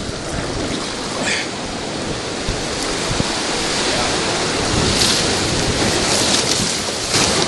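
Whitewater rapids rushing around a raft, with sharper splashes of water breaking over it, louder in the second half.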